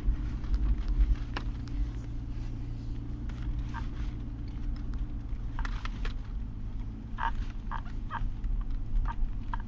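Leather driver's seat of a 2020 Subaru Forester creaking in a series of short squeaks, most of them in the second half, over the steady low rumble of the car on the road.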